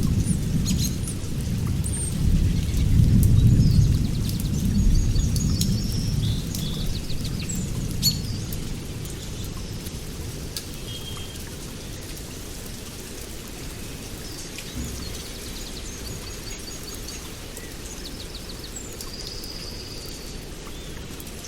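Rain falling with a low roll of thunder that swells in the first few seconds and fades away by about eight seconds in. Songbirds sing over the rain, one repeating a similar trilled phrase twice.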